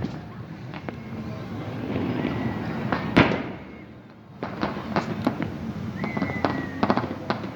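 Fireworks going off: one loud bang about three seconds in, then a quick run of sharp pops and crackles over the last few seconds, with a brief thin high whistle among them.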